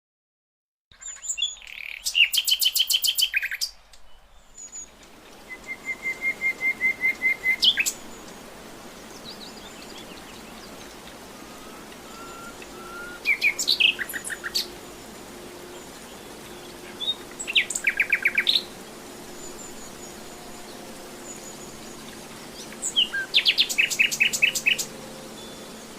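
Common nightingale singing: about five separate song phrases with pauses between them, made of fast runs of repeated notes, one of them a long series of identical notes growing louder.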